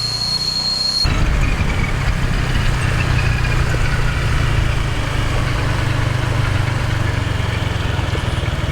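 Rental motorbike's small engine running under way, a steady low drone. A thin, high steady whine over it cuts off about a second in.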